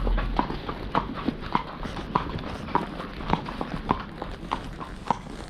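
Horse's hooves clip-clopping at a steady walk on a hard road surface, a sharp strike about every half second with fainter ones between.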